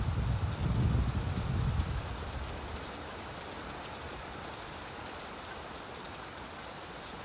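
Steady rainfall hissing. A low rumble of thunder dies away over the first couple of seconds.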